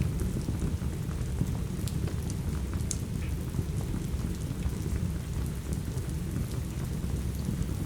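Steady rain with a low rumble, mixed with a few sharp crackles from a fireplace fire about 2 and 3 seconds in.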